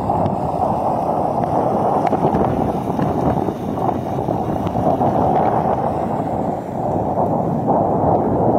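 Steady rushing noise of strong cyclone wind buffeting the microphone.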